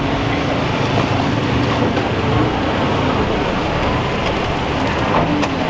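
Car engine idling: a steady low rumble under a constant hiss.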